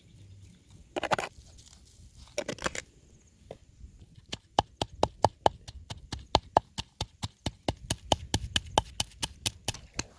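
Two short rustling scrapes, then from about four seconds in a knife chopping rapidly on a cutting board, about five even strokes a second.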